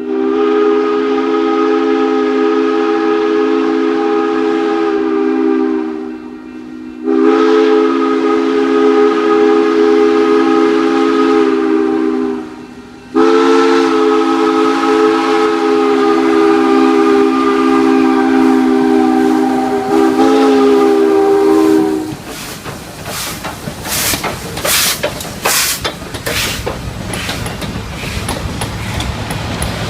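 Steam whistle of Great Smoky Mountains Railroad 2-8-0 No. 1702, sounding several notes together in three long blasts, the last one the longest. Then the locomotive works past with short exhaust beats and rolling rail clatter.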